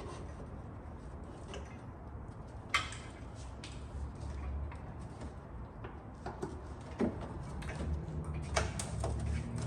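A few short, sharp clicks and knocks, the loudest about three seconds in and a cluster near the end, over a low steady hum.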